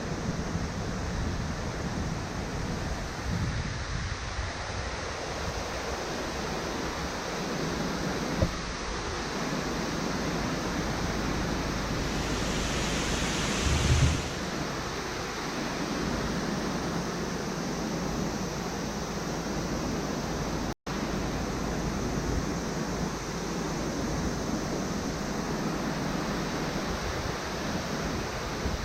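Steady road and wind noise of a car driving, heard as an even rushing hiss. A louder hiss swells about twelve seconds in and ends in a thump, and the sound cuts out for an instant about two-thirds of the way through.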